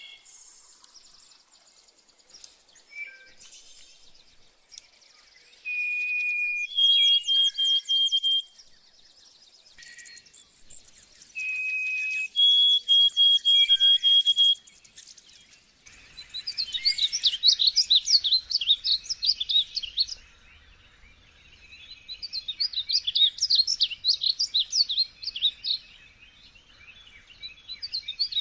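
Small songbirds singing. In the first half two phrases each open with a clear held whistle and run into a string of quick repeated notes. From about halfway through comes rapid, jumbled, high twittering in bouts of about four seconds, three times.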